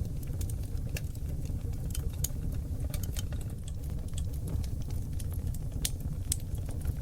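Oak logs burning in a fireplace: a steady low rumble of flames with irregular crackles and sharp pops, the loudest about a second in and twice near the end.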